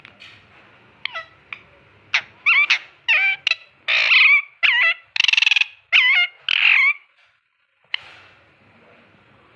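Ringneck parrot calling: a quick run of about ten short, loud squawks that bend up and down in pitch, followed a second later by a single sharp click.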